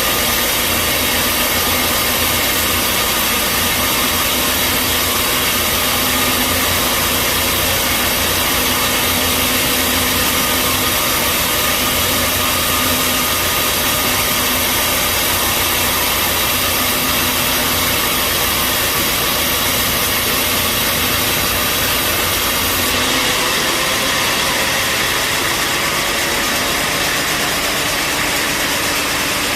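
Band sawmill running with a loud, steady mechanical noise. About three-quarters of the way through, the deep rumble drops away and the sound shifts.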